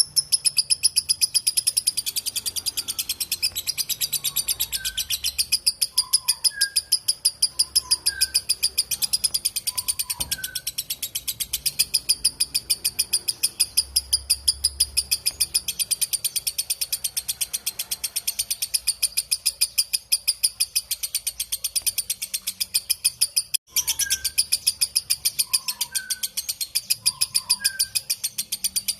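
Lovebird chattering in a long, rapid run of shrill repeated notes (the 'ngekek panjang' call), broken only by a brief pause about two-thirds of the way through. Faint short chirps of another bird sound underneath.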